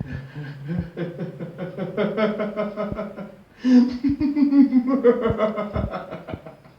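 A person laughing in two long bouts of rapid, evenly pulsed chuckles, the second bout higher-pitched.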